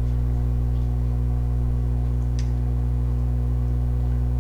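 Steady low hum with several fixed pitches, unchanging throughout, and one faint short click about halfway through.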